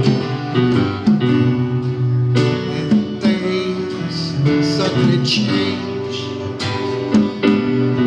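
Live band playing an instrumental passage, with guitar strumming chords in a steady rhythm.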